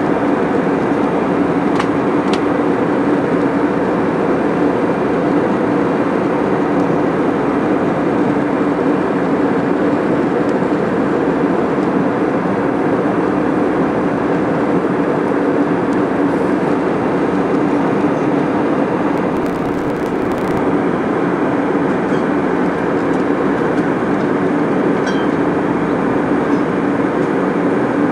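Steady drone of a jet airliner in flight heard inside the passenger cabin: engine and airflow noise with a constant low hum, and a couple of faint clicks.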